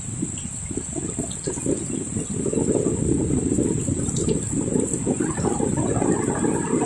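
Water gushing and splashing heavily, growing louder about two and a half seconds in.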